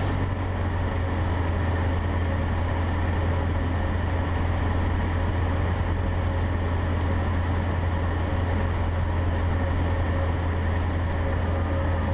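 Cessna 150's four-cylinder engine and propeller droning steadily, heard inside the cockpit on final approach.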